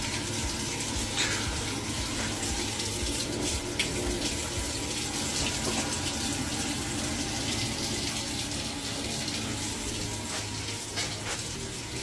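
Water running steadily from a tap, run to check whether the boiler is delivering hot water.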